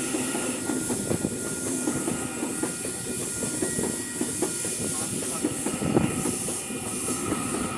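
A train running past: a steady rumble of steel wheels on the rails with many irregular knocks and rattles and a hiss over the top.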